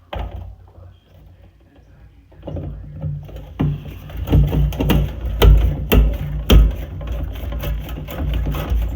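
Power screwdriver or cordless drill running as it drives a screw in, a steady whir that starts about two and a half seconds in, with several sharp clicks and knocks of the driver and metal parts over the next few seconds.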